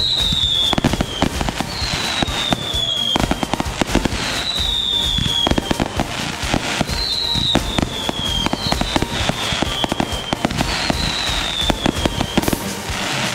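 Consumer fireworks going off in quick succession: dense crackling and popping reports, with a whistle falling in pitch about every two seconds.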